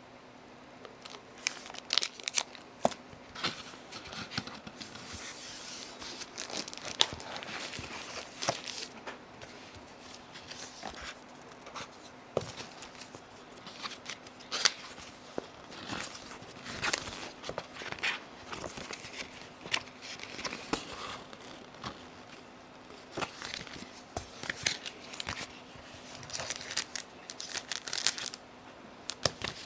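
Packaging being handled during a tablet unboxing: irregular rustling and crinkling with many small clicks and knocks, over a faint steady hum.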